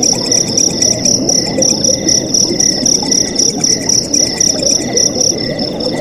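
Night crickets chirping in a steady pulsing rhythm, several chirps a second, over a continuous rush of flowing water.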